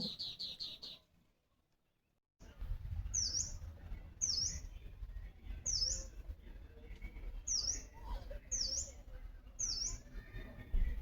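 A bird repeating a short, sharp high-pitched call about once a second, each note dipping down and back up in pitch, over a low steady rumble. In the first second there is a quick run of about six high pulses, followed by a brief dead silence before the calls begin.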